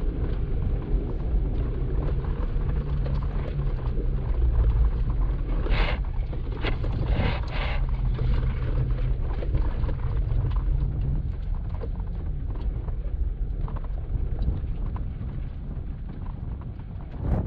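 Jeep Wrangler Rubicon crawling a rough trail, its engine running low and steady, with scattered knocks and clatter from the tyres and chassis over rocks. A few louder short scraping sounds come about six to eight seconds in.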